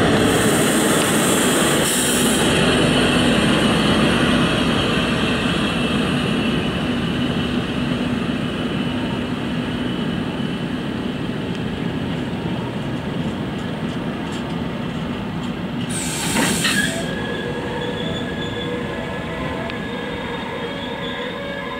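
Freight train of empty stake wagons rolling past behind a Krauss-Maffei V100 diesel locomotive: the locomotive's engine hum is loudest at first and fades as it moves on, leaving the steady rumble of the wagons' wheels on the rails. A short hiss comes about sixteen seconds in, and from then on the wheels squeal with steady high tones.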